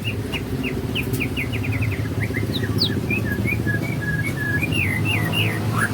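A songbird singing in quick runs of short chirps, over a steady low hum.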